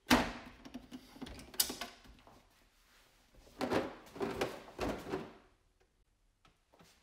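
Plastic storage boxes being handled: a sharp knock at the start, then clicks and scraping, and a run of rattling handling noise ending in a heavy knock about five seconds in.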